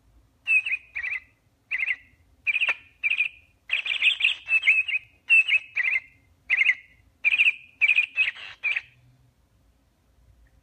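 Bird chirping: a run of short, quick, falling chirps, about fifteen of them in groups, which stop about nine seconds in.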